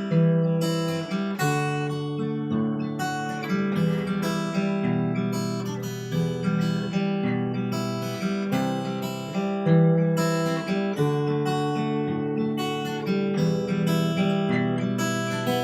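Cort Earth 200 acoustic guitar played fingerstyle, chords picked out note by note in a steady pattern as the song's instrumental introduction.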